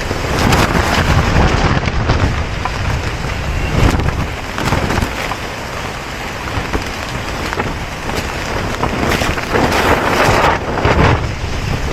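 Gale-force wind gusting against a camping tent, heard from inside it, with a loud rushing noise that swells and eases in several strong gusts. Some of the wind is striking the microphone.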